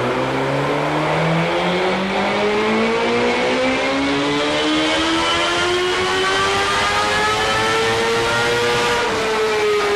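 Suzuki GSX-R1000's inline four-cylinder engine revving up in one long, steady climb in pitch, then easing off about nine seconds in.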